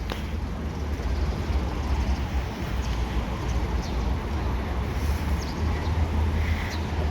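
Steady outdoor background noise: a low rumble with an even hiss over it, like city traffic or wind on the microphone.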